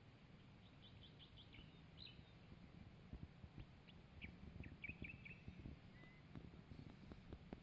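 Faint birds chirping: short high notes in quick runs, a cluster about a second in and another around the middle, over a low rumble.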